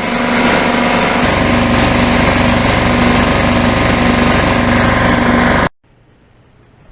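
Craftsman 33-gallon air compressor's motor and pump running steadily under load, a loud, even mechanical drone that cuts off suddenly near the end.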